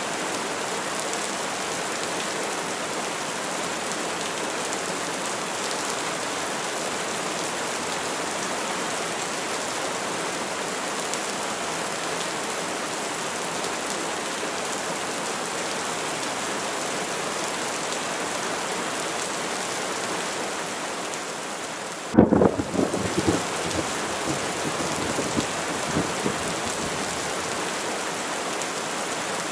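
Steady heavy rain falling throughout. About twenty-two seconds in, a sudden loud clap of thunder breaks in, followed by several seconds of rumbling.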